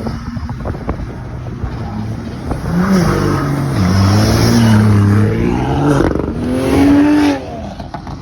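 Car engine rumbling, then revved hard about three seconds in, its pitch rising and falling several times as it accelerates away, cutting off abruptly near the end.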